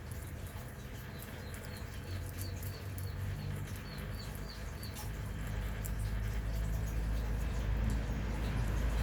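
A run of short high chirps, about three a second, over faint clicking; the chirps stop about halfway through and a low rumble builds in the second half.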